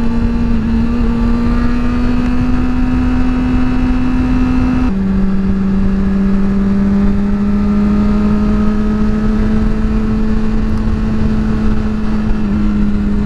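Motorcycle engine pulling under acceleration, its pitch climbing slowly, then dropping abruptly about five seconds in as it shifts up a gear and climbing again. Heavy wind rumble on the helmet microphone underneath.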